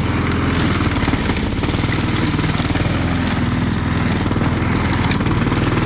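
Walk-behind gasoline lawn mower engine running steadily while cutting tall, overgrown grass.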